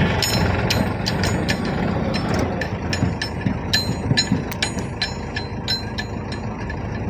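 Heavy diesel machinery, a backhoe loader working beside tractors, running steadily, with irregular sharp metallic clicks and clinks throughout.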